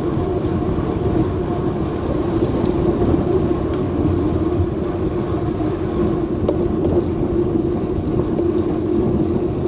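Steady wind and road noise on an action camera's microphone during a road-bike ride, with a constant low hum running under it.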